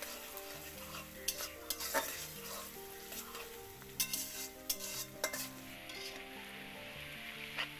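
Sliced onions and whole spices sizzling in hot oil in a wok, with a spatula stirring them and scraping and knocking against the pan several times. Faint background music runs underneath.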